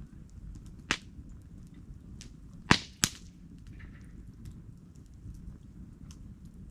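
Wood campfire crackling, with three sharp pops about one, two and a half and three seconds in, the middle one the loudest, and fainter small ticks over a low steady rumble.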